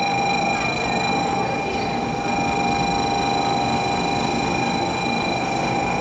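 A steady, unbroken electronic tone with high overtones, over the noise of a Shinkansen station platform with a train standing at it.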